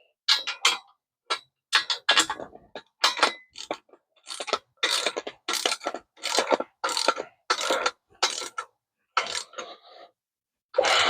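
Ratchet wrench clicking in short repeated strokes, roughly two a second, as bolts are run in.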